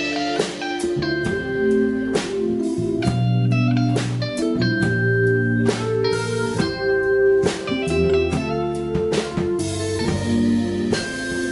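Live band music: a guitar playing a melodic line over sustained bass notes and a drum kit.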